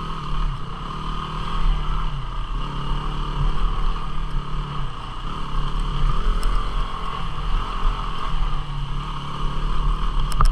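Single-cylinder 250 cc dual-sport motorcycle engine running as the bike rides along a trail, its revs rising and falling every couple of seconds, with wind rushing over the microphone.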